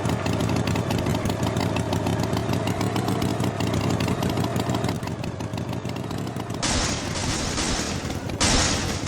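Engine sound effect of a tractor running steadily with a rapid putter, broken near the end by two loud bursts of hiss.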